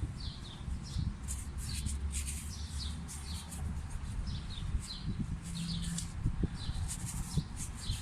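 Small birds chirping over and over in short, quick calls, over a low steady rumble.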